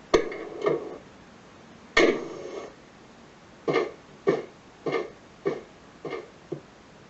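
Tamiya MFC-03 sound unit playing its driver-getting-out effect through its small speaker. A latch click and thump, then a door slammed shut about two seconds in, followed by six footsteps about 0.6 s apart that grow fainter as they walk away.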